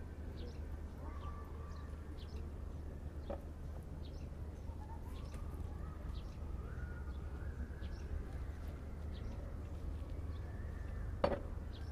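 Outdoor ambience: scattered short chirps of small birds over a steady low rumble, with a sharp knock about three seconds in and a louder one near the end.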